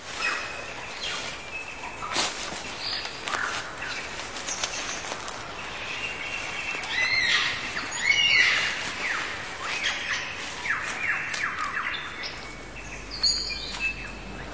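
Wild birds singing, many short chirps and whistled calls overlapping, over a faint steady hiss.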